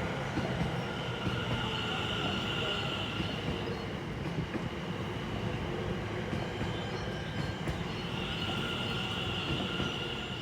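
Train passing close by, a steady rumble of wheels on the rails. A high wheel squeal rings out twice, about a second in and again near the end.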